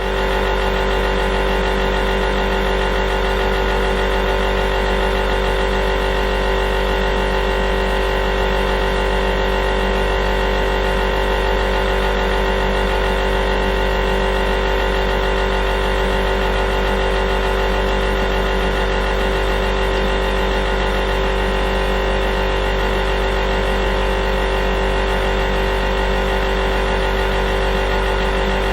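A steady buzzing sound effect: one unchanging buzz made of a deep hum with many higher tones stacked above it, holding the same pitch and loudness.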